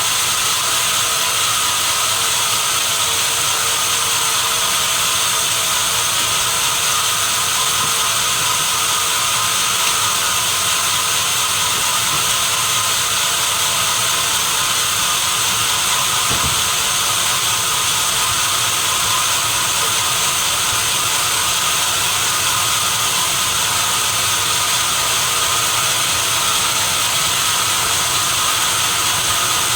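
Sawmill saw running steadily: a loud, unchanging high whine over hiss, with no starts or stops.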